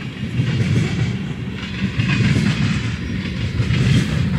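Freight train of tank cars rolling past: a steady rumble of steel wheels on the rails, a little louder in the second half.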